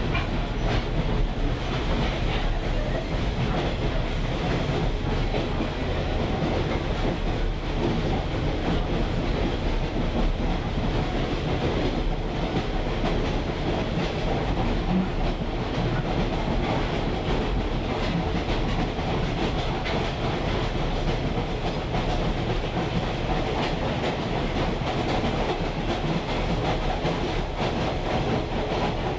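A train's wheels rolling steadily over jointed track, with a continuous rumble and clickety-clack, as heard riding in a caboose.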